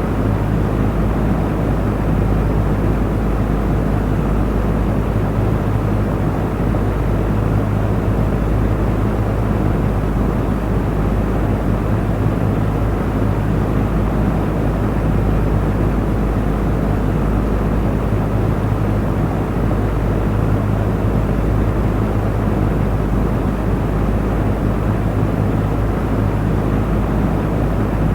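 Electric fan running steadily: an even whoosh of moving air with a low motor hum beneath it.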